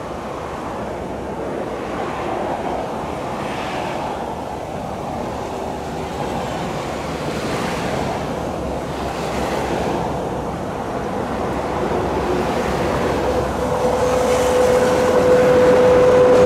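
SS8 electric locomotive hauling a passenger train, approaching round a curve and passing: a steady rumble of wheels on the rails that grows louder, with a steady whine setting in a few seconds before the end.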